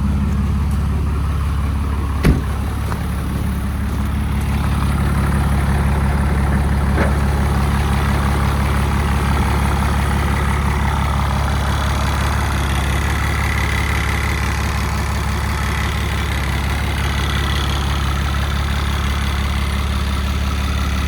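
2008 Ram pickup's Cummins inline-six turbo-diesel idling steadily just after a cold start, running smoothly even when cold. A single sharp clunk about two seconds in, with a fainter click a few seconds later.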